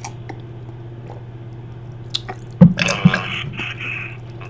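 A man sucking and slurping wetly on his finger, with a short moan about three seconds in, heard over a phone line.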